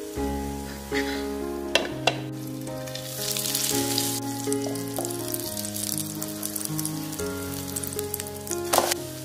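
Rice batter pancake sizzling in hot oil in a nonstick pan, the sizzle strongest a few seconds in. A few sharp clacks of the spatula on the pan, the loudest near the end as the pancake is flipped. Background music with held notes plays throughout.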